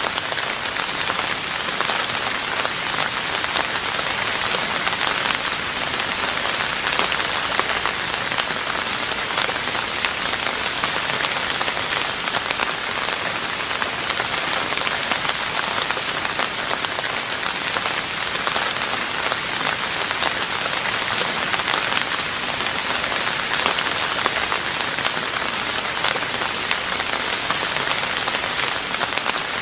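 Steady rain falling on a roof, an even hiss of many drops without let-up.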